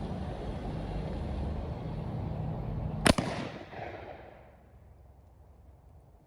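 A rifled black-powder muzzleloader firing a load of bird shot: one sharp report about three seconds in, with a short echoing tail that fades over a second or so.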